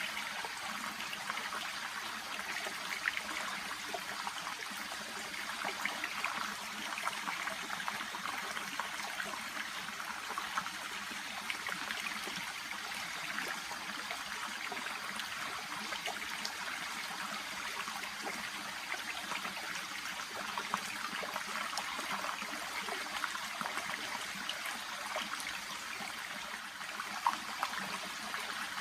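Small stream babbling: a steady trickling rush of water, dense with little splashes and gurgles.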